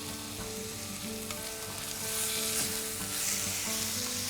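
Chicken and onion masala sizzling in hot oil and ghee as it is sautéed and stirred in the pot, the sizzle growing louder about halfway through.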